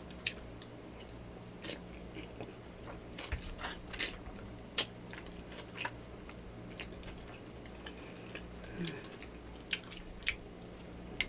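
Close-up mouth sounds of a person chewing a bite of yakamein beef noodle soup: irregular wet clicks and smacks, a few every second.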